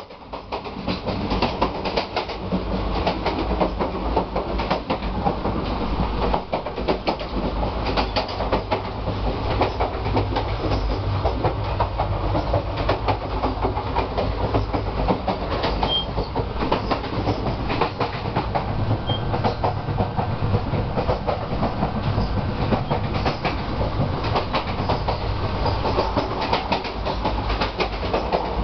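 Indian Railways express train running at high speed, heard from the vestibule between coaches. Wheels rattle and clatter on the track in dense, rapid clicks over a steady deep rumble.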